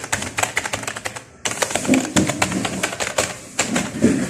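Fast typing on a Fantech Soldier K612 membrane keyboard: a quick, dense run of key clicks, with a brief break about a second and a half in.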